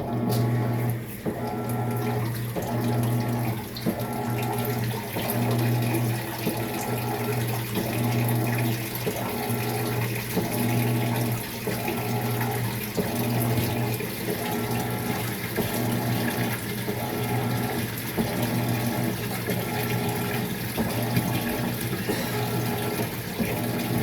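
Maytag MVWX655DW1 top-load washing machine on a tub clean cycle: water rushing into the tub, with a low motor hum that switches on and off in regular pulses about once a second.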